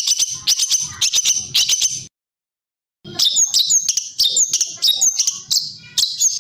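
Small songbird singing rapid, sharp chattering phrases of high chirps and trills. The song cuts out completely for about a second near the middle, then resumes with a run of quick, repeated down-slurred notes.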